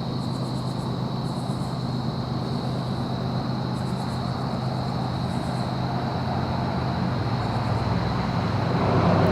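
Diesel freight locomotives working hard under heavy load, bogged down: a steady low engine drone that grows slowly louder toward the end as they approach.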